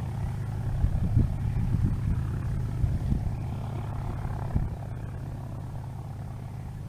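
Distant light propeller aircraft engine running steadily, with wind gusts thumping on the microphone in the first half.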